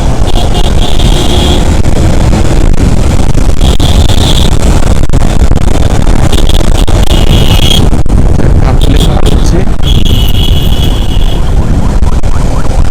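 Motorcycle ride through city traffic: a loud, steady rumble of engine and road noise on the rider's microphone. A high-pitched tone comes and goes several times.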